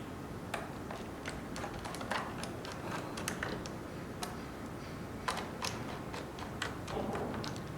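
Irregular light clicks and taps, about two or three a second and uneven, as the parts of a Roomba robot vacuum are handled during a battery swap.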